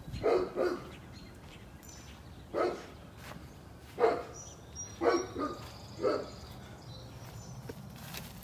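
A dog barking several times in short separate barks, with faint bird chirps in the background.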